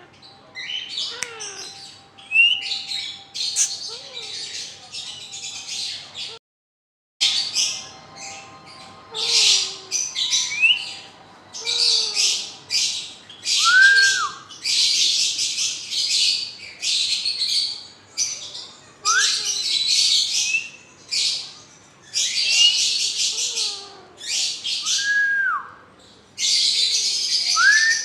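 Pet parrots screeching: a long series of harsh squawks, one after another, mixed with short whistled notes that rise and fall. The sound cuts out completely for a moment about six seconds in.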